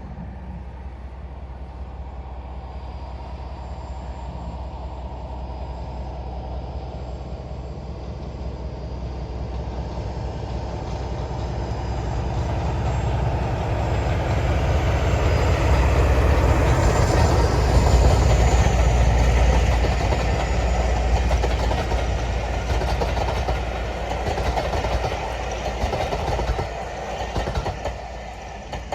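Class 47 diesel-electric locomotive hauling a train past, its engine drone and the rumble of the train building to loudest about two-thirds of the way through, then fading as it moves away.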